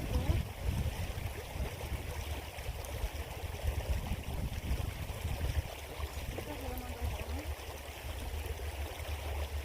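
Small creek water flowing steadily, over a constant low rumble. A faint voice is heard briefly past the middle.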